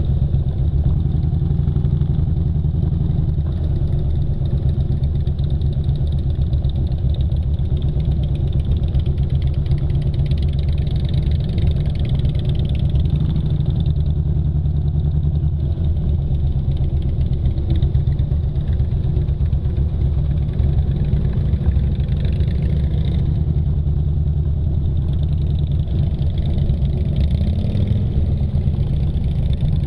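Motorcycle engine running at a steady pitch throughout, with no revving up or down.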